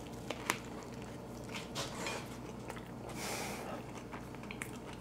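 A person biting into a soft corn-tortilla taco and chewing it with mouth closed: faint wet mouth sounds and a few small clicks over a steady low hum.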